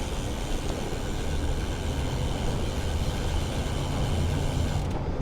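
Steady traffic and road noise during a bicycle ride, with a low motor-vehicle hum underneath.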